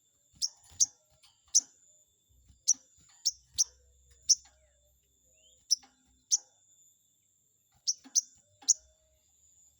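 Sogon bird giving short, sharp, high chirps, about a dozen, singly and in quick pairs, each a quick downward flick. This is a lure call of the kind used to provoke a rival sogon into answering.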